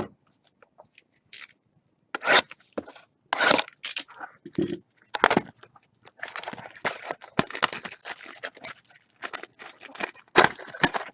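Plastic wrapping on a box of sports trading cards being torn and crinkled open in irregular scratchy bursts, busiest from about six to nine seconds in.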